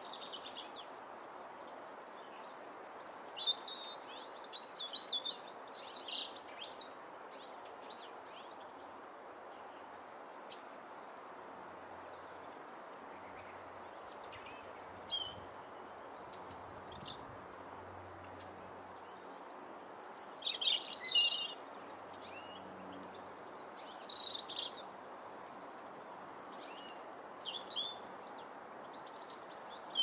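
Small birds calling in short, high chirps and trills, in scattered bursts every few seconds. A steady background hiss runs underneath.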